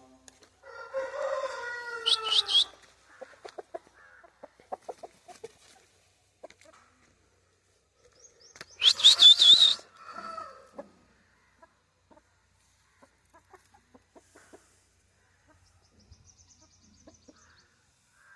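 Aseel rooster crowing twice: a drawn-out crow in the first few seconds and a louder, shriller one about nine seconds in, with scattered short clucks and ticks between.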